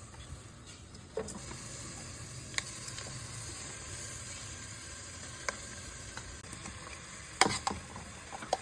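Food sizzling as it fries in oil in a pan: a steady hiss, with scattered clicks and scrapes of a utensil stirring it. There are a few sharper knocks of the utensil against the pan near the end.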